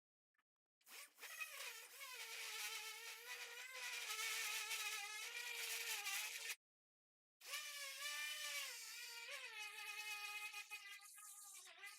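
A small electric power tool's motor whining steadily, its pitch dipping now and then as if pressed under load. The sound drops out completely twice, briefly.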